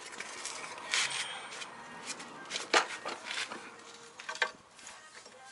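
Parking-brake shoes and springs being worked into place by hand: metal parts clinking, scraping and rubbing, with a few sharp knocks about one, three and four and a half seconds in.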